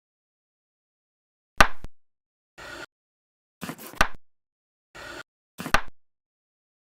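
Rubber chicken toy squeezed three times, each squeeze giving a short, sharp, loud squawk. Quieter, breathier sounds fall between the squawks.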